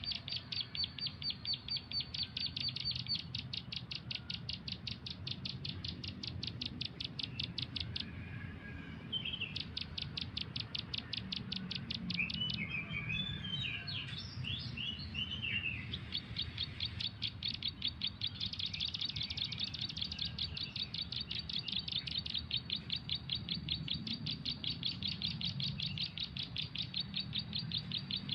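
A bird chirping in a long run of rapid, evenly spaced high notes. The run breaks off around eight seconds in, a more varied twittering phrase follows, and then the rapid chirping starts up again.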